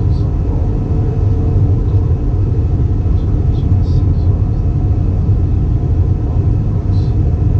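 Airbus A320 cabin noise: a steady low rumble of engine and airflow heard from inside the cabin.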